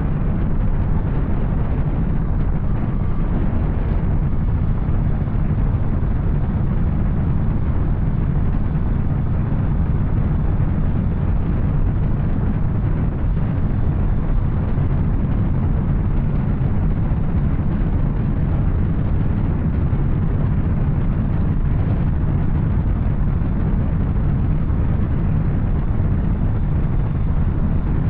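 Yamaha Tracer 900's three-cylinder engine with an Arrow exhaust, running at a steady pace while riding: a continuous low rumble with no changes in pitch.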